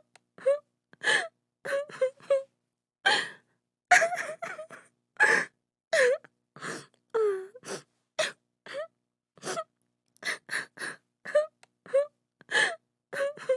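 A woman crying: short gasping sobs and breaths in quick runs, broken by a few longer wails that bend down in pitch.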